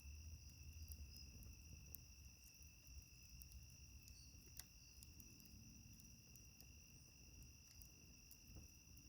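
Faint, steady high trilling of night insects, crickets, with scattered sharp crackles and pops from a wood fire.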